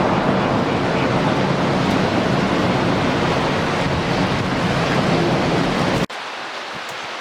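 Heavy rain with wind buffeting the microphone during a thunderstorm, a loud steady rushing noise. About six seconds in it cuts off abruptly to a quieter, steady rain hiss.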